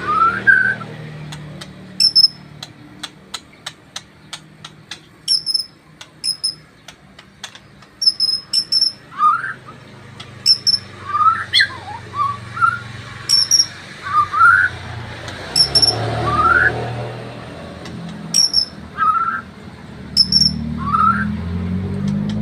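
Male white-rumped shama singing: short rising whistled notes repeated every second or two, with high thin chips between them and a quick run of sharp clicks in the first third.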